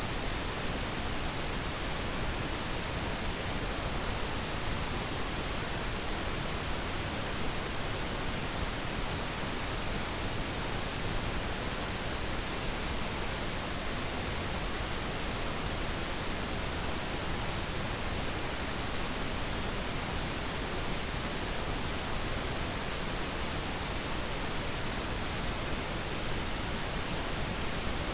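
Steady pink noise: an even, unchanging hiss with no breaks or other sounds.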